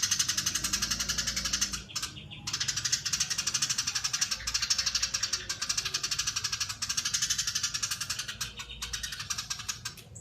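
Eurasian tree sparrow chattering in long, very rapid, tightly packed runs of high notes. The chatter breaks off briefly about two seconds in and dips again near the end.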